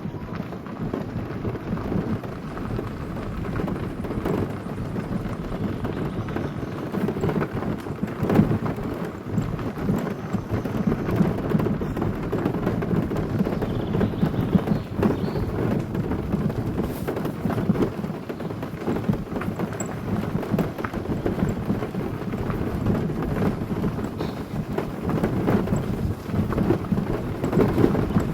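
Car tyres rolling along a gravel road: a steady low rumble dense with small clicks of stones, and a few sharper knocks.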